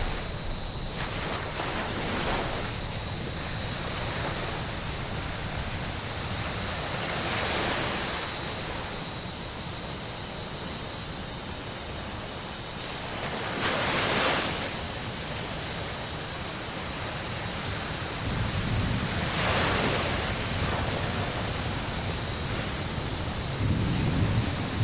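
Ocean waves washing onto a beach, a steady surf hiss with several waves breaking in turn, the loudest about halfway through, and a low rumble of wind on the microphone near the end.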